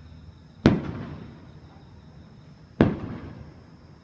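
Fireworks shells bursting: two sharp booms about two seconds apart, each trailing off in about a second of rumbling echo.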